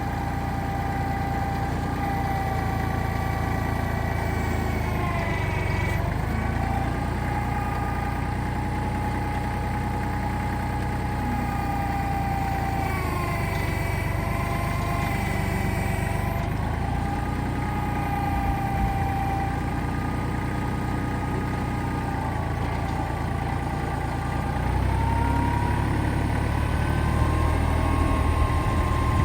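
Kubota tractor's diesel engine running, with a whine over the engine note whose pitch dips and rises a few times as the engine speed changes. It gets louder about 25 seconds in.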